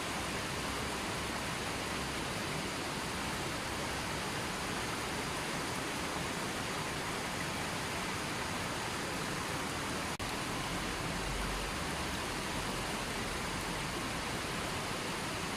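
River water flowing, a steady rushing wash, with a momentary drop in level about ten seconds in.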